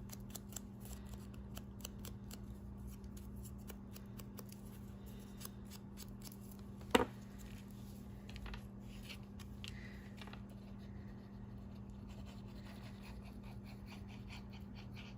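Hands working with paper cards and craft tools: a quick run of small clicks and paper rustles, one sharper click about seven seconds in, then sparser ticks. A steady low hum runs underneath.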